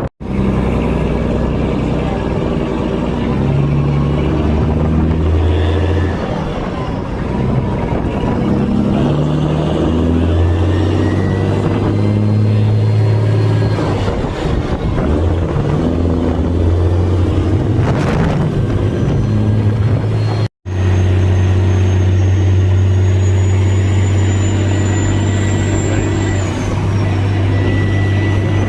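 Tow truck driving down the road with a fire truck in tow: a steady engine drone with road and wind noise. The sound cuts out briefly about twenty seconds in.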